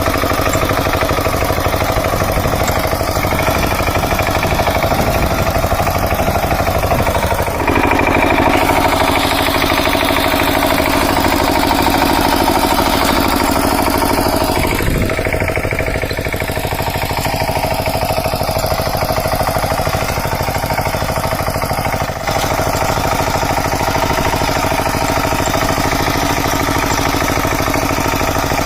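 Kamco power tiller's single-cylinder diesel engine running steadily and loudly. Its tone shifts about a quarter of the way in, and again about halfway through with a brief falling sweep.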